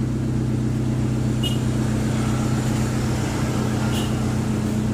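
Toyota Avanza's four-cylinder engine idling steadily, a low, even hum from the exhaust.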